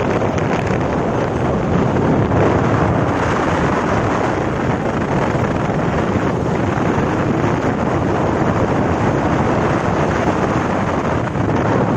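Steady rush of wind over the microphone of a motorcycle in motion, with road noise underneath.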